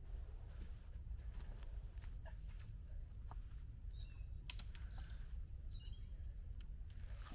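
Birds calling with a few short, high chirps, mostly in the second half, over scattered light clicks and knocks and a steady low rumble.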